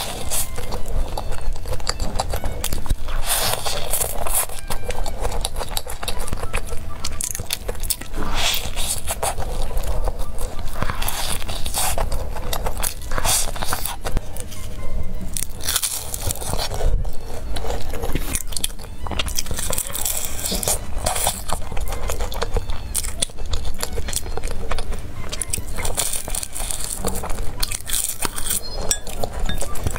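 Background music over close-up crunching bites and chewing of a crispy fried chicken burger.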